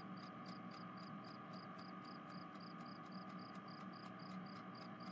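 Faint cricket chirping, evenly spaced at about three chirps a second, over a low steady hum.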